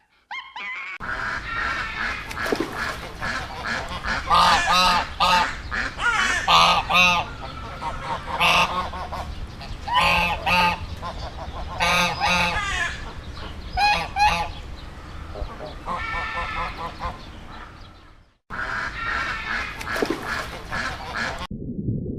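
A flock of waterfowl honking, many loud calls overlapping. It breaks off briefly about 18 seconds in, resumes, and gives way to a different low sound near the end.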